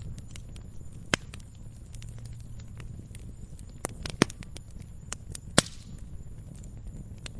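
Campfire crackling: burning wood snapping and popping in scattered sharp cracks, a handful of them much louder than the rest, over a low steady rumble.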